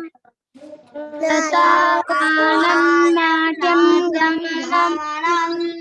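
A child chanting a line of a Sanskrit shloka to a sung melody, repeating after the teacher, with a steady held tone running beneath the voice. The chant starts after a short pause.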